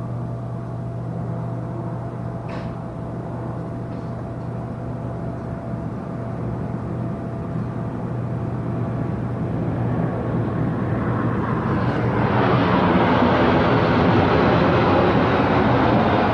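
Steady low hum of a cruise ship's machinery. About ten seconds in, a rushing noise swells over it and grows loud a couple of seconds later.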